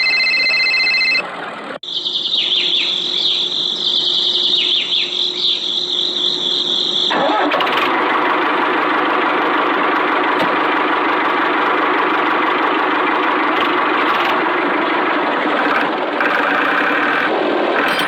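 Small tractor engine running steadily. A high steady tone sounds for about the first second, and the sound changes abruptly about two seconds in and again about seven and a half seconds in.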